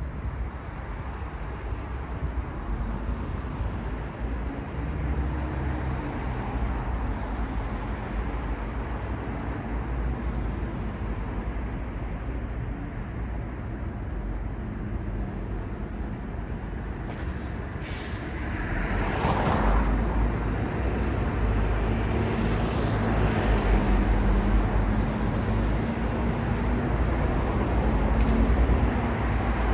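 Steady city street traffic noise with vehicle engines running. About two-thirds of the way in, a few short sharp hisses come just before a louder vehicle passes close, and a low engine hum then holds through the rest.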